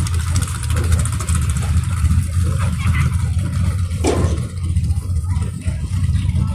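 Drag-racing motorcycle engines running with a steady low rumble, cutting off abruptly at the end.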